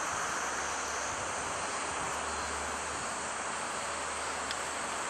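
Container freight train rolling away into the distance: a steady low rumble with an even high hiss over it.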